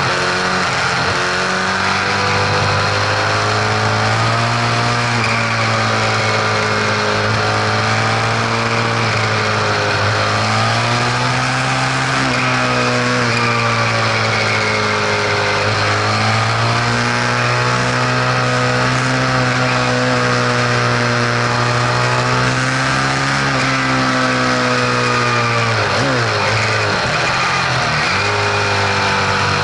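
Vehicle engine running, its pitch drifting slowly up and down with engine speed, then dipping sharply and climbing back near the end. The owner questions an unfamiliar mechanical noise in it.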